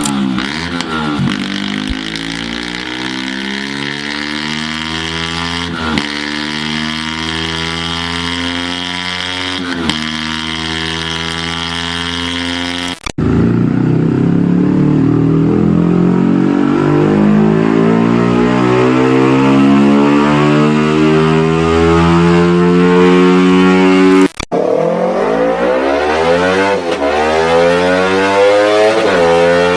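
Yamaha YZF-R series sport motorcycles accelerating hard through the gears, the exhaust note climbing in pitch and dropping back sharply at each upshift. Two abrupt cuts switch to a different bike: the middle one pulls in a single long rise in pitch, and the last climbs again with quick shifts.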